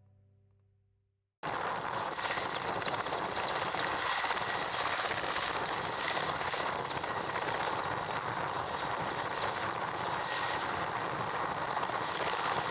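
Mi-8 helicopter running, a steady turbine whine over constant rotor noise. It cuts in abruptly about a second and a half in, after music fades out.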